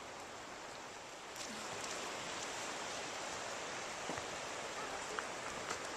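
A steady outdoor rushing hiss with a few faint ticks, growing a little louder about a second and a half in.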